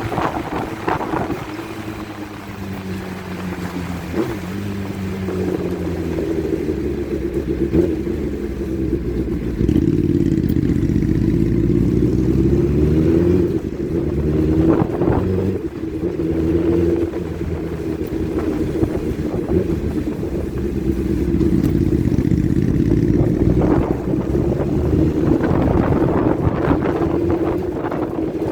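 Motorcycle engines running under way in a convoy, their pitch rising and falling repeatedly as the revs change.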